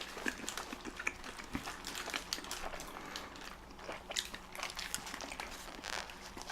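Chewing and biting into chili dogs close to the microphone: soft wet mouth sounds with many small irregular clicks and smacks.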